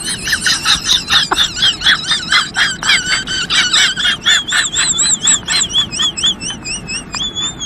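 High-pitched squealing chirps, about four or five a second, giving way about four seconds in to a wavering, warbling whistle that rises and falls about twice a second.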